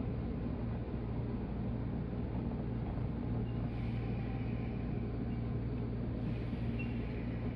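Steady running noise of a 185 series electric train in motion: a continuous low rumble and hum, with a brief hiss rising twice, about four seconds in and again near the end.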